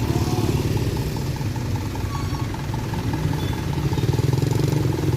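Motor vehicle engines idling steadily in a low, pulsing rumble, with a faint tone repeating evenly several times a second above it.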